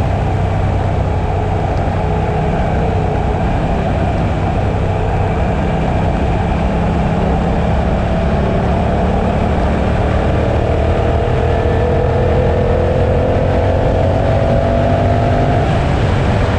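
Suzuki motorcycle engine running at road speed with steady wind rush. Its pitch rises slowly in the second half as it gathers speed.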